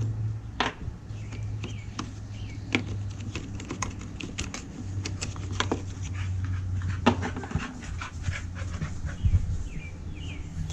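Irregular small clicks and taps of screws and a hand tool being worked loose from the plastic housing of an Echo CS310 chainsaw, over a steady low hum.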